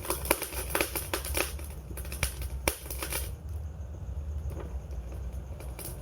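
Wood fire crackling: quick sharp pops and snaps over a low steady rumble of the burning fire. The pops come thick and fast at first and thin out about halfway through.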